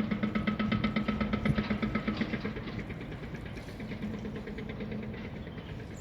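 An engine running with a steady rhythmic throb; its low hum fades and the sound grows a little quieter after about two seconds.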